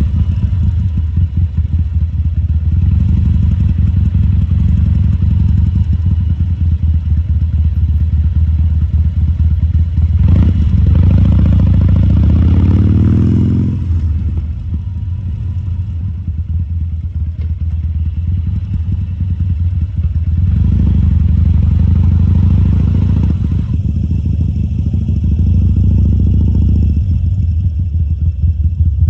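Harley-Davidson Sportster 1200 Custom's air-cooled V-twin running at low speed with a loping, pulsing exhaust note. Its revs rise about ten seconds in and again about twenty seconds in, then drop back.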